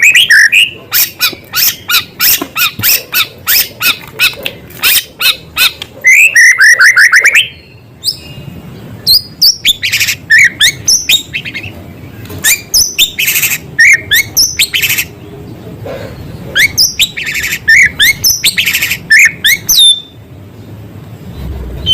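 White-rumped shama singing loudly and without pause, its song filled with small-bird mimicry. It opens with fast chattering rattles, then a run of down-slurred whistles about six seconds in, followed by a mix of whistles, rising and falling sweeps, and buzzy notes, broken by short pauses.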